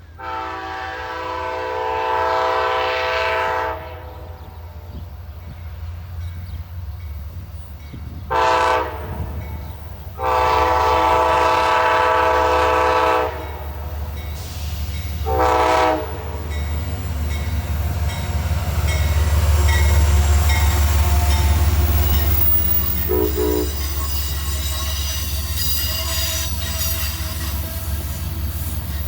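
Amtrak locomotive's multi-note air horn blowing four blasts: long, short, long, short. Then the train runs through with a low rumble that builds to its loudest about two-thirds of the way in, and a high wheel squeal.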